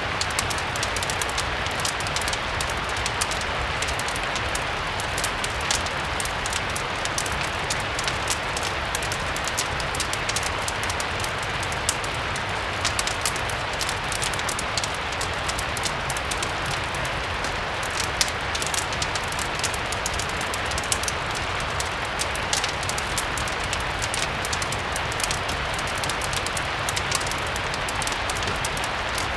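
Steady rain ambience blended with a crackling fireplace: an even hiss of rain with a dense scatter of small sharp ticks and crackles and a low rumble underneath.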